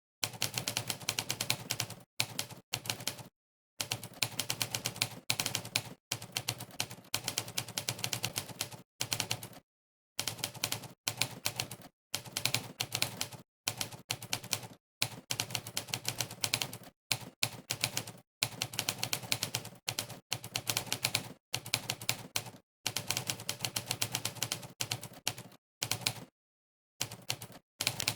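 Monkeytype's 'typewriter' keypress sound effect: a sampled typewriter key strike plays for each keystroke during fast typing. The strikes come in quick runs of many clicks a second, broken now and then by short, completely silent pauses.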